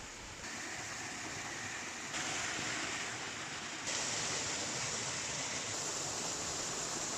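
Steady rush of a waterfall, growing louder in a few sudden steps.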